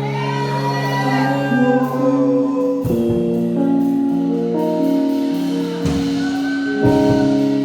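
Church worship band playing a slow instrumental lead-in to a song: sustained chords that change every second or so, with deep bass notes entering a few times.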